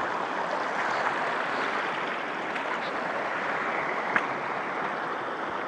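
Stream water rushing steadily, with one short click about four seconds in.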